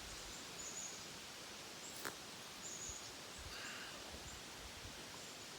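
Quiet woodland ambience: a steady hiss with a few short, high-pitched chirps, and one sharp click about two seconds in.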